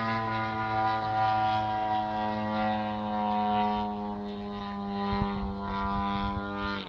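Model airplane engine running at a steady high pitch, wavering a little as it flies, then cutting off suddenly.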